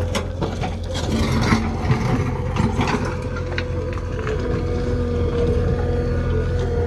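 Backhoe loader's diesel engine running steadily, with metallic clanks and rattles over the first few seconds.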